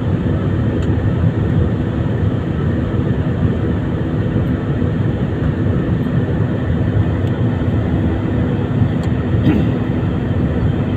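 Airbus A320ceo jet engines and rushing air, a loud, steady rumble with faint steady tones and no change in level.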